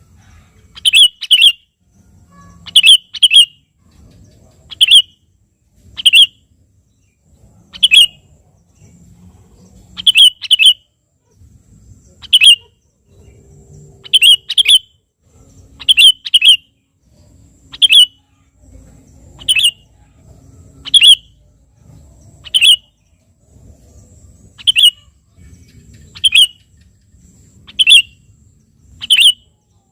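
Sooty-headed bulbul (kutilang) calling loudly in short, sharp notes, singly or in quick pairs, about every one to two seconds.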